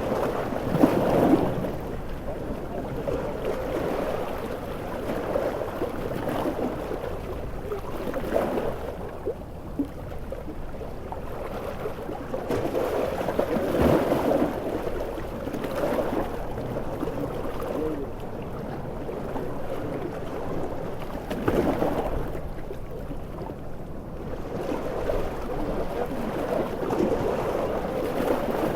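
Large ocean waves surging and breaking in a storm, a steady rushing noise that swells every several seconds.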